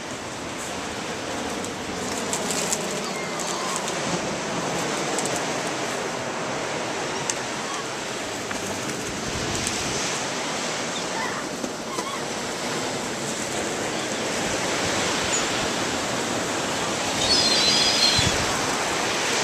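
Atlantic surf washing steadily onto the beach. A few short, high-pitched gull calls come near the end.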